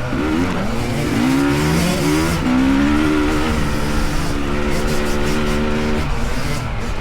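Dirt bike engine revving, its pitch climbing over the first two seconds or so, then held at steady high revs before easing off near the end.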